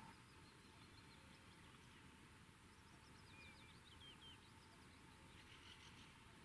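Near silence: faint outdoor hiss with a few distant small birds chirping, a quick run of short falling chirps about three to four seconds in and a few more near the end.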